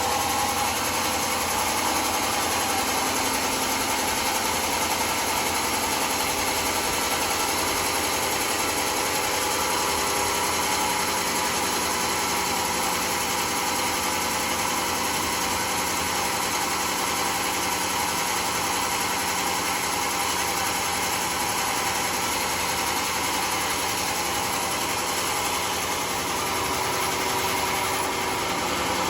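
Sawmill saw machinery running steadily, a constant mechanical drone with several steady tones and no change in pace.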